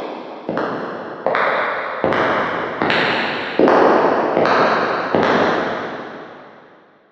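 Footsteps at a steady walking pace, about one step every three-quarters of a second, each step ringing on with echo. The steps grow louder, stop about five seconds in, and the last one dies away.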